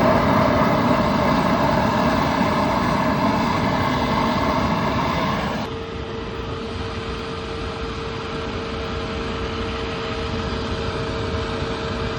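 Diesel-fired barrel furnace, freshly lit and still cold, running: burner flame and combustion-air blower making a steady rushing noise. About halfway through it suddenly drops quieter, leaving a steady whine over the rush.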